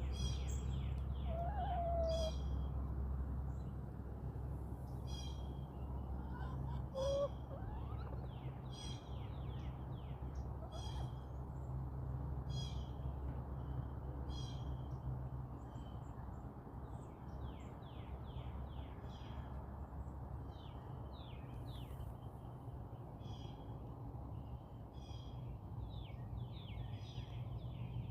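A songbird singing the same short, high phrase over and over, every second or two, over a steady low hum. A couple of brief, soft low calls from backyard chickens come in the first few seconds.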